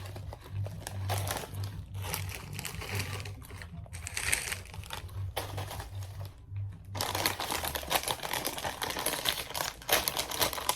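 Plastic potato chip bag crinkling as it is handled, in irregular bursts, loudest and most continuous in the last few seconds.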